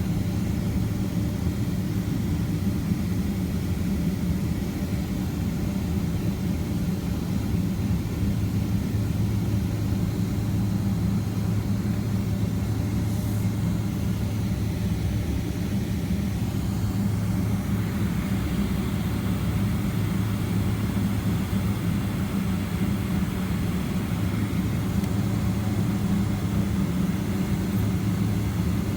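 Steady low rumble and hum of a Boeing 767-300ER's jet engines at low power, heard inside the passenger cabin, with a slight added hiss from about halfway through.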